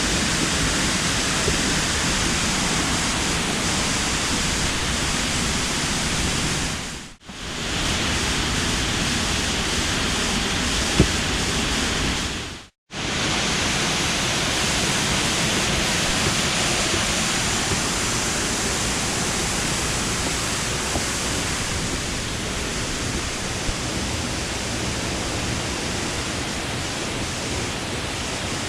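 Waterfall's steady rush of falling water. The sound cuts out briefly twice, about seven and thirteen seconds in.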